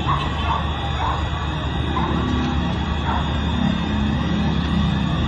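Emergency vehicle sirens wailing with rising and falling pitch over a steady wash of noise.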